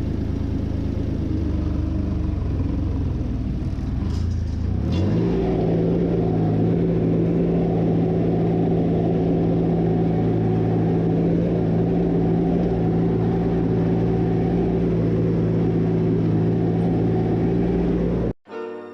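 Small 25-horsepower turbo diesel engine of an ASV RT25 compact track loader running at a low speed, then revved up about five seconds in and held steady at the higher speed. A couple of light clicks come just as it revs, and the sound cuts off abruptly near the end.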